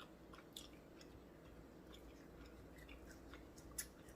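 Faint chewing of grilled steak: soft, scattered wet mouth clicks over a low room hum, with a slightly sharper click near the end.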